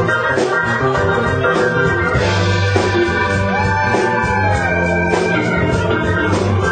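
Live band music with sustained keyboard chords over a steady bass line, a cymbal wash about two seconds in, and a note that slides up and holds near the middle.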